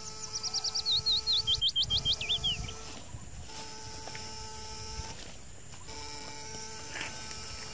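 A songbird singing a quick run of high, sweeping whistled notes, about two seconds long, near the start. Under it are a faint steady hum and some low rustling in the vegetation.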